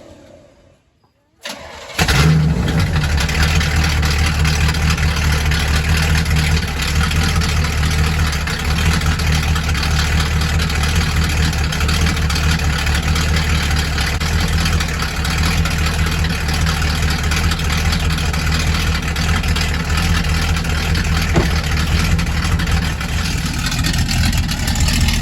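Car engine starting from cold about two seconds in, after a brief crank, then running at a steady, loud idle as it warms up after sitting unused for a while.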